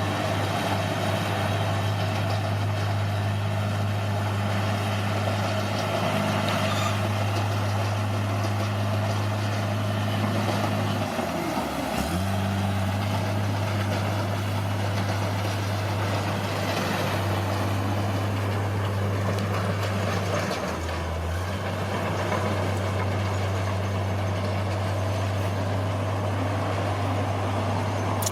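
Bulldozer's diesel engine running steadily. Its pitch sags briefly and recovers twice, a little under halfway through and again about three quarters of the way through.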